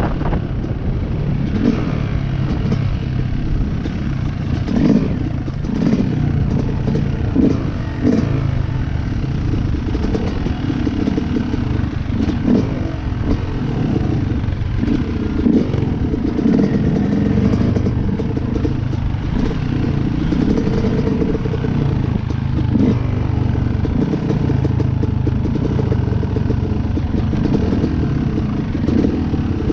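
Small single-cylinder four-stroke dirt bike engine, a Honda CRF110, running continuously while being ridden. Its pitch rises and falls as the throttle opens and closes, with scattered rattles and knocks.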